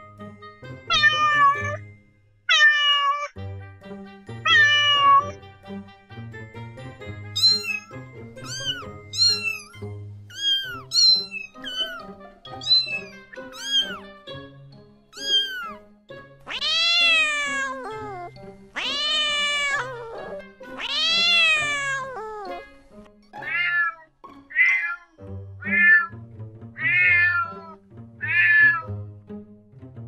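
Kittens and cats meowing, one call after another, over background music. A run of short, high mews gives way about two thirds of the way through to three long, loud meows, then to shorter meows again.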